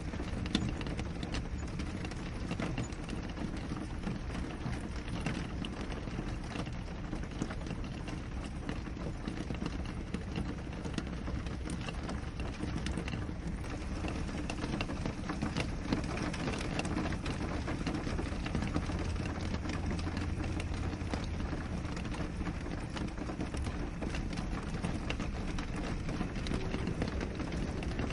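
Steady rain on a window: an even hiss of rainfall threaded with many separate small drop hits on the glass. A faint low hum sits under it for a few seconds past the middle.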